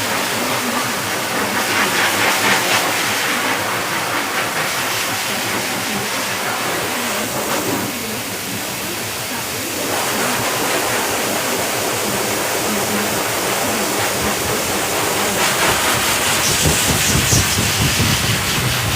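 Pet grooming dryer blowing a steady rush of air, its hiss dipping for a couple of seconds about halfway through.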